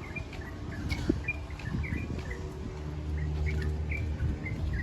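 Small birds chirping, a steady run of short high chirps a few times a second, over a low hum that swells in the middle.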